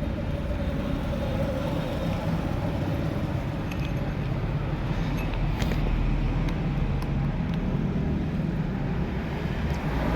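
A motor running steadily, driving a makeshift lathe rig of grinder discs clamped on a bolt, used to work a bearing into place.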